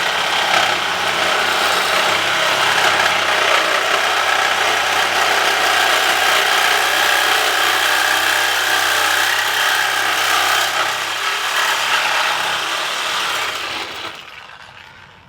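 A handheld power tool running steadily under load for about fourteen seconds, then winding down and stopping near the end.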